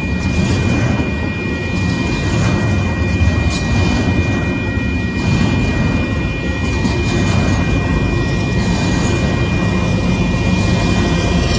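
Double-stack intermodal freight cars rolling past close by: a steady heavy rumble of steel wheels on the rails, with a thin steady high tone running above it.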